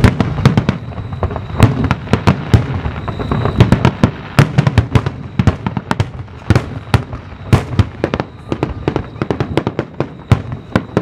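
Aerial firework shells bursting in quick succession: a dense barrage of sharp bangs, several a second, over a continuous low rumble.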